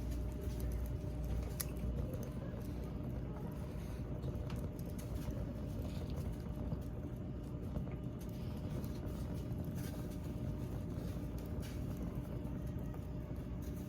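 Campfire crackling: a few sharp pops and clicks over a steady low noise.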